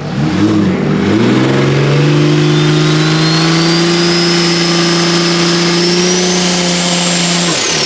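A car engine is blipped twice, then held at steady raised revs for about five seconds before dropping back. A thin high whine climbs slowly in pitch during the hold and falls away as the revs drop.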